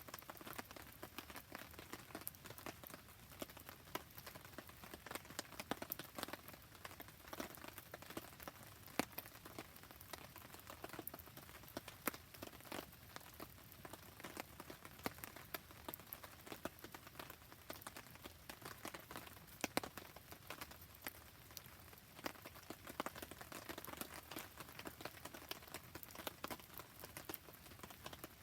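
Rain falling with a campfire crackling: a dense, irregular patter of small sharp clicks and pops over a soft steady hiss.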